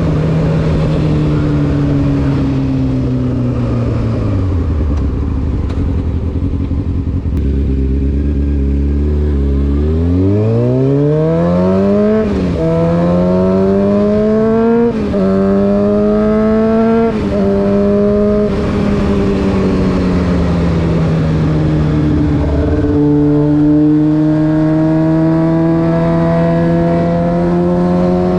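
Honda CBR600F4's inline four-cylinder engine through an SC Project aftermarket exhaust: it slows down to a low idle, then pulls away hard, climbing through three quick upshifts, each a sudden drop in pitch, before settling into a steady cruise with engine speed slowly rising.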